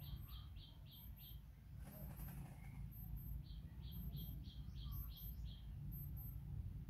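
A bird calling: two runs of short, high chirps, about five a second, the first near the start and the second from about halfway in, over a low rumble.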